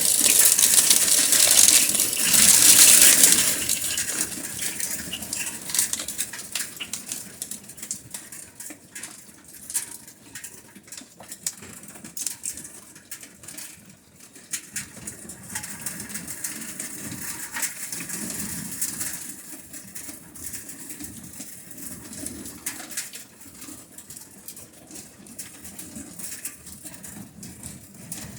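Heavy rain and hail driven by gusty wind: a loud rushing downpour for the first few seconds, easing after about four seconds to a quieter steady patter full of sharp ticks of hailstones and drops striking.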